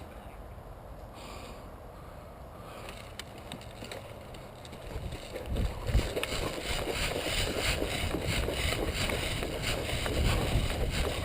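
Person wading through a river, water sloshing and splashing around the legs in irregular strokes, getting louder about halfway through.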